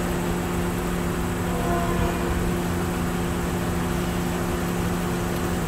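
A train running past the railroad crossing: a steady mechanical hum with several held low tones that drop in pitch at the very end.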